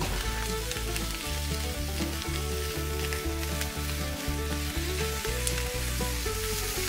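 Onions and minced meat sizzling in a frying pan while being stirred with a silicone spatula, over background music with a steady beat.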